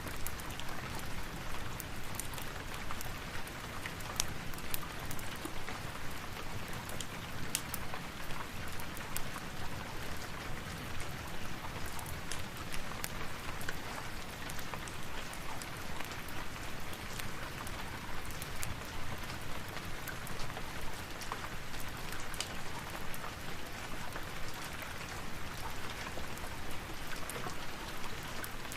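Steady rain falling, an even rushing patter with many small sharp ticks scattered through it.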